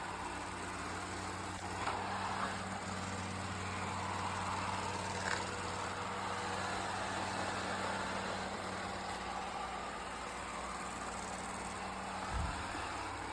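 Eureka E20 Plus robot vacuum running, a steady motor and suction hum; the hum stops near the end with a short low thump.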